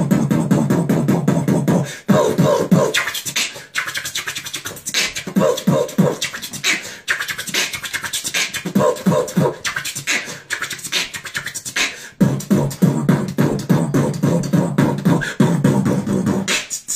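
Human beatboxing: fast mouth-made drum hits and clicks in a steady rhythm, with stretches of hummed, buzzing bass under them, stopping abruptly near the end.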